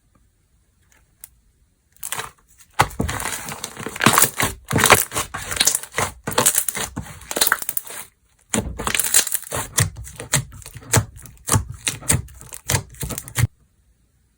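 Slime being squeezed and worked by hand, making dense crackling, popping sounds. It starts about two seconds in, pauses briefly past the middle and stops near the end.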